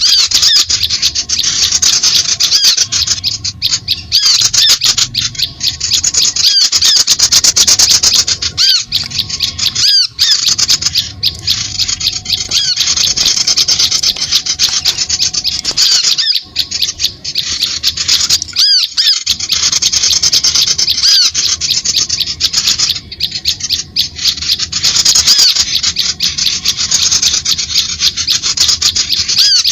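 Bird-lure recording of rapid, dense, high-pitched chattering bird calls with small arching chirps, broken by brief gaps every few seconds.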